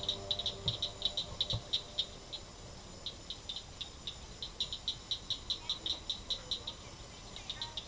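A chorus of frogs calling at the lake's edge: a steady run of sharp, high clicks, several a second, with a short lull about a third of the way in.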